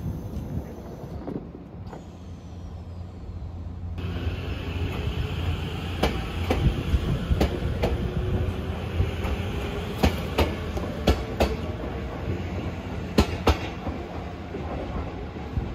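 JR E257 series electric express train moving off along the platform, its motor tone slowly rising in pitch as it picks up speed. Its wheels clack over the rail joints, often two clacks close together.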